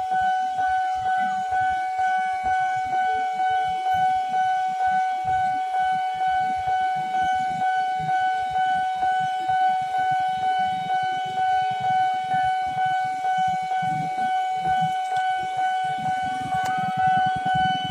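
Railway level-crossing warning alarm sounding one steady high tone without a break.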